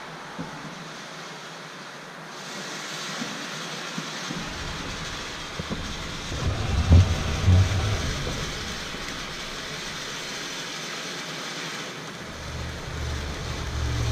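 Reloadable fountain firework spraying its glitter, a steady hiss with fine crackle that grows stronger about two seconds in. There are a few louder low thumps about seven seconds in, and a low rumble begins near the end.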